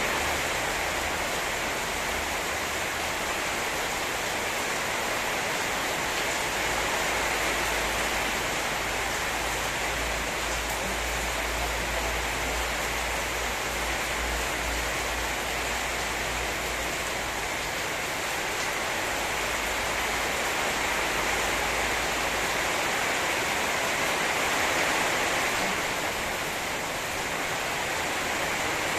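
Heavy rain pouring steadily, an even hiss of water, with a low rumble underneath through the middle stretch.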